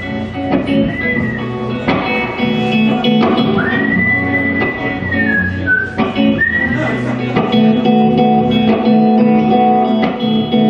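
Band music with guitars, and a person whistling the melody over them in long held high notes that slide up at the start of each phrase and fall away at the end. The whistling stops about seven seconds in, leaving the guitars playing on.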